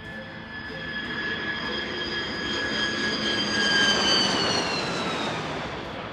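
Jet aircraft passing by: engine whine and rushing noise build to a peak about four seconds in, then the whine falls in pitch as the aircraft moves away.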